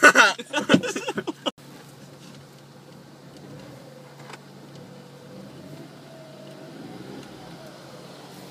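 A young man laughs for about a second and a half, then a steady low hum fills the car cabin: the car's engine idling.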